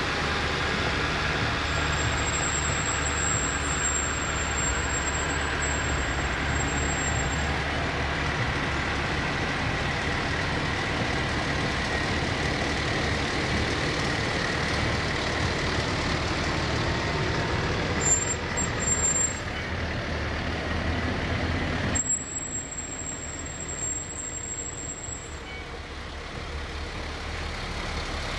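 Fire trucks' diesel engines running steadily as they pass. Two short loud bursts come about four seconds apart, two-thirds of the way through, and after the second the engine sound drops away.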